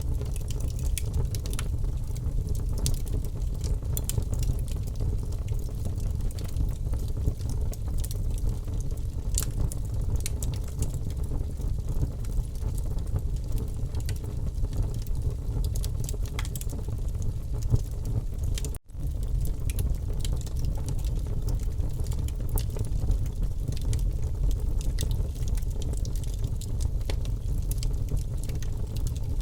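Wood fire burning in a fireplace: a steady low rumble with scattered sharp crackles and pops. The sound cuts out for an instant about two-thirds of the way in.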